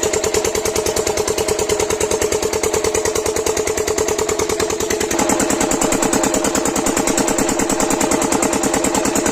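7HP single-cylinder diesel pump-set engine running steadily with a fast, even firing beat. About five seconds in it gets slightly louder and its tone shifts.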